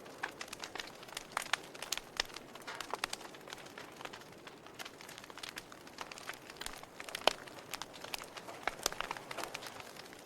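Wood fire crackling in a fireplace: irregular sharp pops and snaps over a soft steady hiss, with one louder pop a little past seven seconds in.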